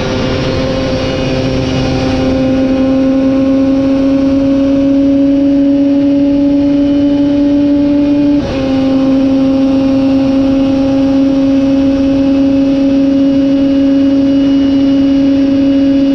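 Superbike racing motorcycle engine held at high revs under power, its pitch creeping slowly upward. There is a brief dip about eight seconds in, like a quick gear change, and then it runs steady again.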